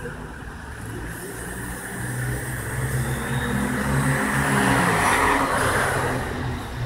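A car engine running close by, getting louder with a rushing hiss to its loudest about five seconds in, then easing off.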